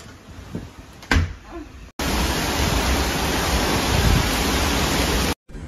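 Heavy hurricane rain and wind: a loud, even rush of noise from about two seconds in, cut off abruptly near the end. A single thump is heard about a second in, before it.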